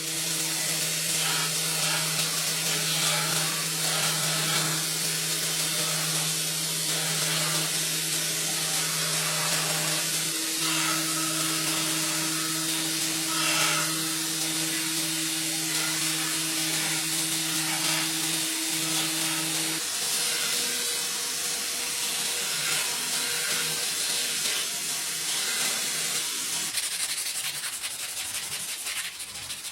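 Power tool grinding or sanding the leaf-spring steel blade: a steady hissing rub of abrasive on steel over a motor hum. The hum drops out about two-thirds of the way through while the hissing goes on.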